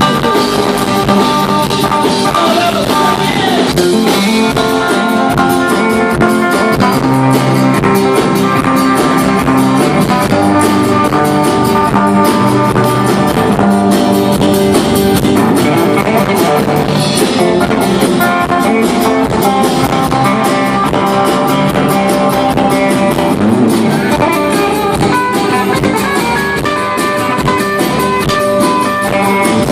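Live band playing an instrumental break in a rock song, led by guitar over a steady drum kit beat.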